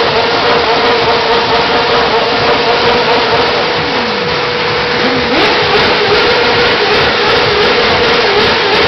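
BMW motorcycle engine running loud, held at a steady high pitch, with a fainter lower engine note briefly dropping and rising about four to five seconds in.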